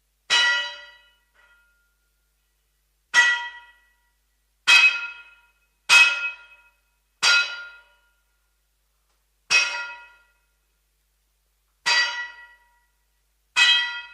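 Blacksmith's hammer striking metal on an anvil, eight separate ringing clangs at uneven intervals, each dying away in about half a second.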